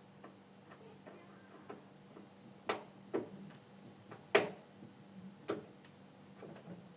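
Irregular sharp clicks and knocks of hard objects being handled, a dozen or so, unevenly spaced, with two louder knocks near the middle, over a faint steady low hum.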